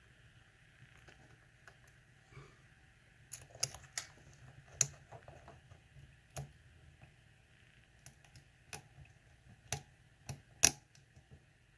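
Lock picks working in a pin-tumbler lock: scattered light metallic clicks and taps as pins are probed and set, about a dozen at uneven intervals. The lock is held in a false set.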